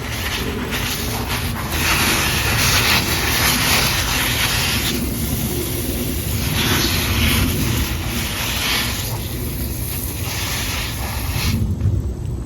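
Garden hose spraying water onto plants. The spray comes in waves, louder for a few seconds at a time, and cuts off near the end.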